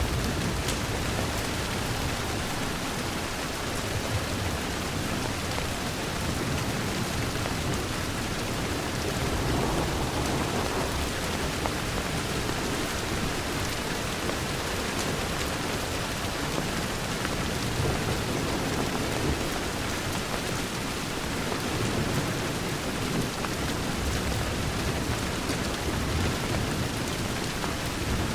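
Steady rain pattering on a window pane, with a low rumble that swells and fades underneath and the soft crackle of a fireplace.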